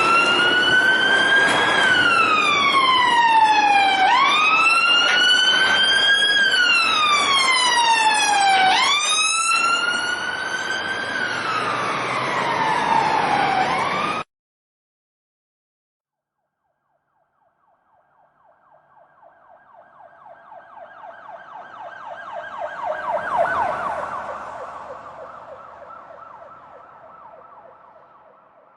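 Police siren wailing: its pitch rises quickly and falls slowly in about three long cycles over background traffic noise, then cuts off abruptly about halfway through. After a few seconds of silence, a second, fast-warbling siren fades in, grows loud and fades away again.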